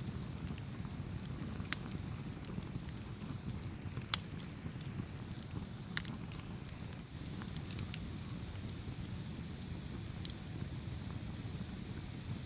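Campfire burning: a steady low rumble with scattered sharp crackles and pops, the loudest pop about four seconds in.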